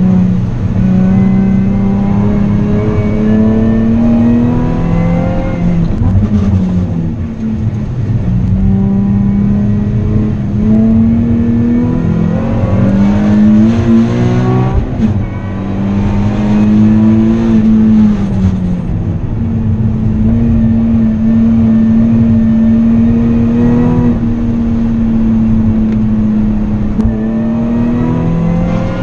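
Nissan 370Z's V6 engine heard from inside the cabin at racing pace, its note climbing under throttle and dropping back at gear changes and braking several times, then holding a fairly steady pitch for several seconds near the end.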